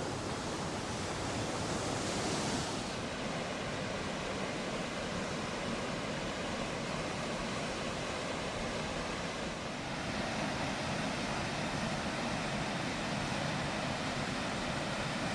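Steady rushing of a waterfall, a little brighter and hissier for the first few seconds.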